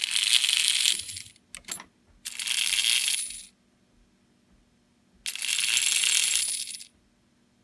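Marx toy-train electric motor running free in three short spurts of a second or so each, a metallic whirring rattle of its gears, stopping and starting between spurts.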